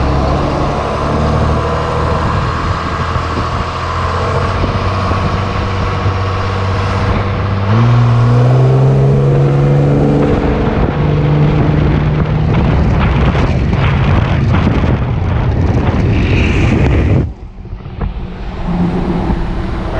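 Cummins diesel engine in a Ford F-250 driving along, then pulling hard about eight seconds in: the engine note steps up in pitch and gets louder, and a faint high whistle rises as the turbo spools. The level drops suddenly near the end.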